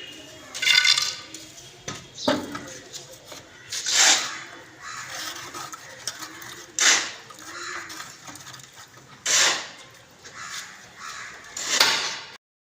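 Birds calling: about six loud, harsh calls spaced two to three seconds apart over a busy lower background.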